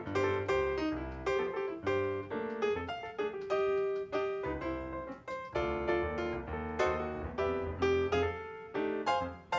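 Background piano music: a steady run of struck notes over a bass line.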